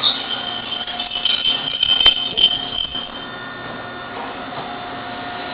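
Eizan Electric Railway car 723 braking to a stop: a high, wavering brake squeal for about three seconds, with a sharp click about two seconds in, over the car's steady hum.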